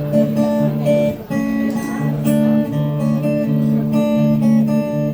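Live band playing an instrumental passage, guitar chords ringing out with held notes that change about every half second; no singing.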